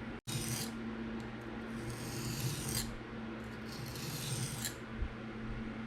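Knife blade scraped across a diamond sharpening plate in three strokes, each a rasping hiss lasting under a second, spaced about two seconds apart.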